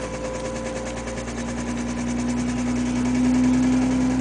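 Toyota 1JZ inline-six engine pulling under throttle while driving, its tone rising slightly and growing louder in the second half, with a rapid regular knocking from a worn connecting-rod bearing (rod knock).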